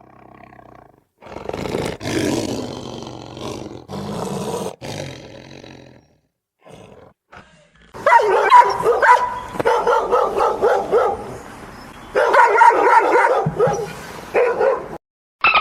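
Animal calls: a few seconds of rough, noisy calls, then after a short pause a longer run of louder, pitched calls in quick succession.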